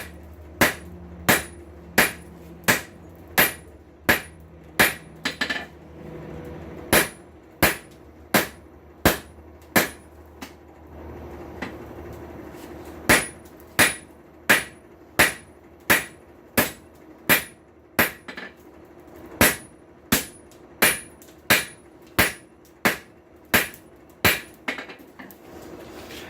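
Blacksmith's hand hammer striking hot steel on an anvil in a steady rhythm, about three blows every two seconds, forging a tong blank; the blows stop for a couple of seconds near the middle, then resume. A low steady hum runs under the first ten seconds or so.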